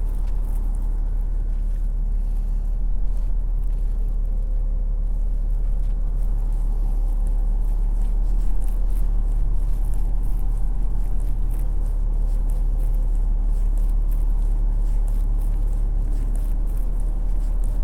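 Steady low rumble of outdoor city ambience, with no clear single event standing out.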